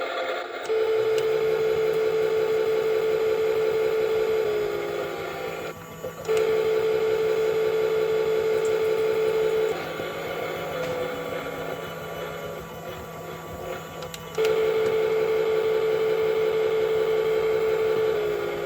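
Toy washing machine's small motor turning the drum in three runs of a few seconds with pauses between. Each run is a steady whine that sags a little in pitch as it stops, over a constant lower hum.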